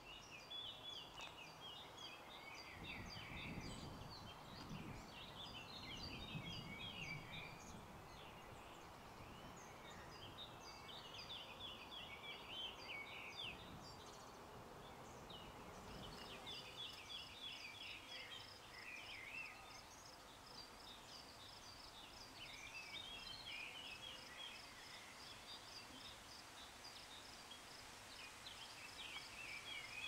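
Faint outdoor birdsong: a songbird repeats a short phrase of quick, falling notes every few seconds. From about halfway in, a high, rapid ticking note runs on steadily beneath it.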